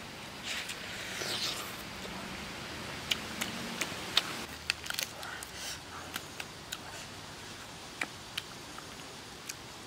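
Close-miked eating of grilled chicken thigh: biting and chewing with wet mouth clicks and smacks, scattered and irregular, with a denser stretch about a second in.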